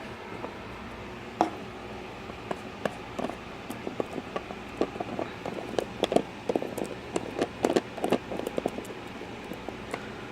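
A fish-food container being worked open one-handed: irregular clicks, taps and knocks, coming thicker in the second half, over a steady low hum.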